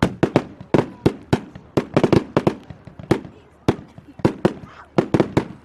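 Fireworks display: a rapid, irregular barrage of sharp bangs, several a second.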